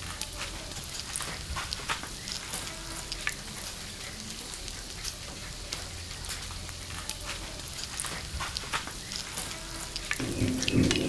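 Semiya vermicelli-coated chicken nest snacks deep-frying in hot oil: a steady sizzle full of small popping crackles, with a louder noise about ten seconds in.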